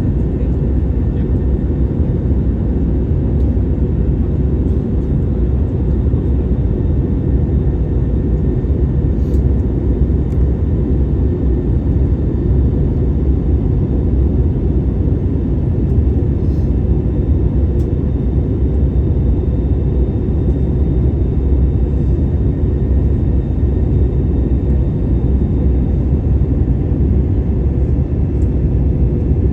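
Jet airliner's steady low rumble of engines and rushing air, unchanging throughout.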